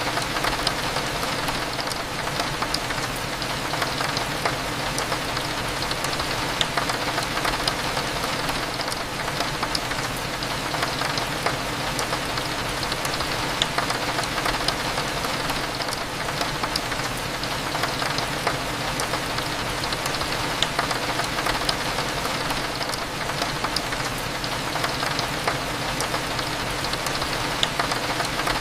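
Steady rain with scattered drop ticks, pattering against a window over a low, steady cafe hum.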